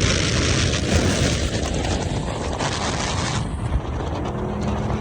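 Mopar muscle cars running fast on the highway: loud engine and exhaust noise mixed with heavy wind noise, the hiss dropping off about three and a half seconds in.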